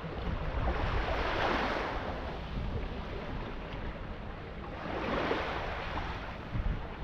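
Sea water washing and rushing in two swells, about a second in and again about five seconds in, with wind buffeting the microphone as a steady low rumble.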